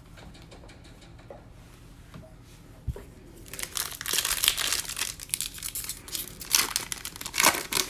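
Trading-card pack wrapper crinkling as it is torn open. The crinkling starts about three and a half seconds in, after a single knock.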